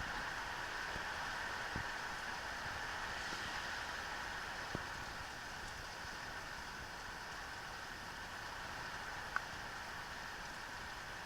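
Steady rain falling, an even hiss with a few scattered drips or knocks and one short sharp tick late on.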